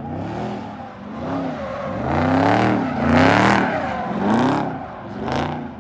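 Car engine being revved hard over and over, its pitch climbing and dropping back about once a second.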